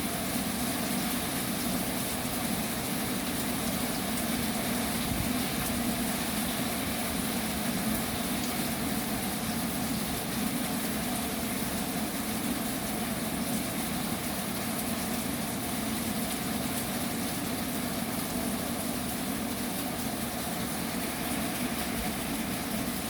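Heavy rain falling steadily, a dense even hiss with a low steady drone underneath.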